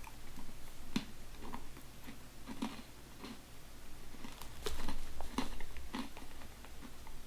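Crunchy honey-mustard pretzel sticks being chewed close to the microphone: irregular crisp crunches and bites, heaviest about a second in and again between about four and a half and six seconds in.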